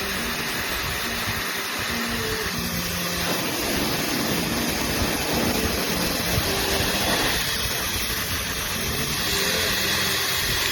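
Hair dryer running, a steady rushing hiss of blown air that stops abruptly at the very end.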